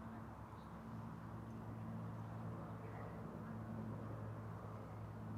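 A faint, steady low engine hum, growing a little stronger near the end.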